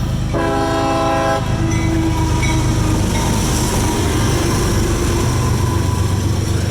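Freight locomotive horn sounding a chord in one blast of about a second just after the start, then the loud steady rumble of the passing CSX autorack train's locomotives and cars.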